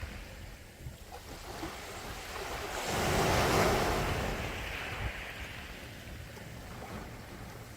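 Gentle sea waves: one wave swells and washes in about three seconds in, then draws back, over a steady low rumble of surf.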